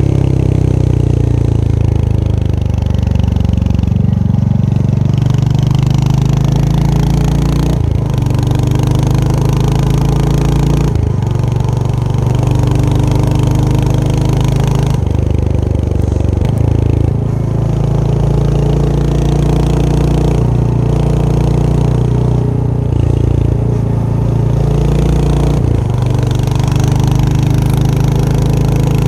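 Royal Enfield Hunter 350's single-cylinder engine and exhaust running under way. Its note steps up and down abruptly several times as the rider shifts gears and opens and closes the throttle.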